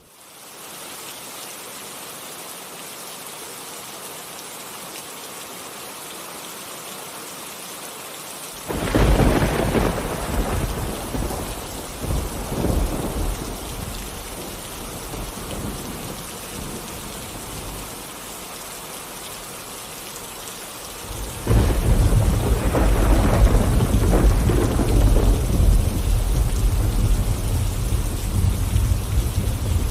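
Steady rain with rolling thunder. A rumble of thunder about a third of the way in dies away over several seconds; a louder, longer roll of thunder begins about two-thirds of the way through and keeps going.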